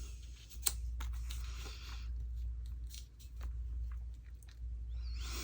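Cardstock and paper being handled: rustling and sliding sheets with scattered light taps and clicks, the rustle strongest about a second in and again near the end, over a steady low hum.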